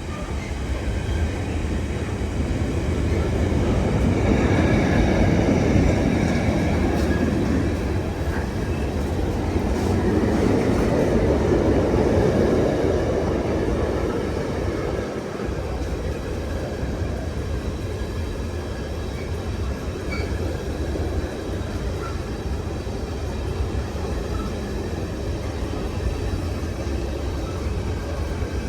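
Long container freight train running through a station, its wagons rumbling and rattling over the track, swelling louder twice in the first half.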